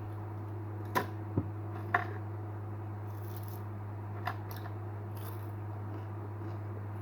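A steady low hum with four short, sharp clicks, three close together about a second in and one more near the middle.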